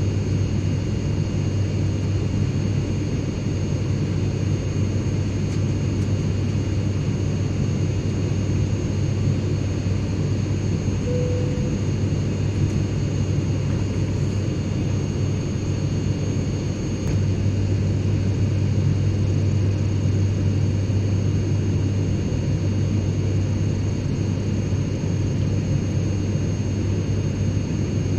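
Airplane cabin noise: a steady low drone under a constant hiss with a few faint high whines, growing slightly louder about two thirds of the way through.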